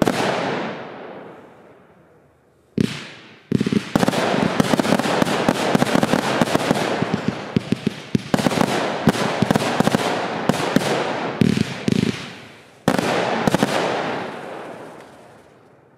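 Pyrotrade Exorzist 3 firework going off: rapid sharp bangs and dense crackling. It fades after the first second or two, starts again in short blasts near three seconds, runs almost unbroken from about four to twelve seconds, and ends with a last volley around thirteen seconds that dies away.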